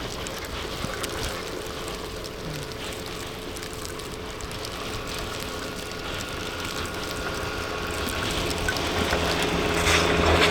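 Blizzard wind blowing hard, a steady rushing noise. A low engine hum under it grows louder toward the end.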